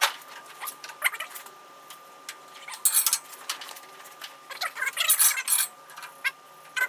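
Irregular metallic clinks and rattles of metal tools or parts being handled, in clusters, with a faint steady high-pitched hum underneath.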